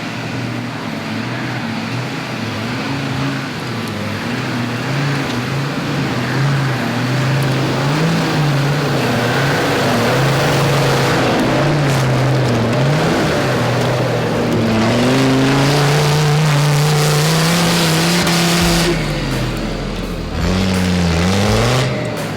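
An off-road 4x4's engine revving hard and unevenly under load as it climbs a muddy hill, its pitch rising and falling with the throttle. A rushing noise builds over the middle and then breaks off about three seconds before the end.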